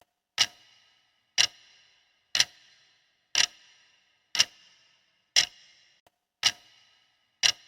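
Steady ticking: one sharp tick about every second, eight in all, each with a short ringing tail.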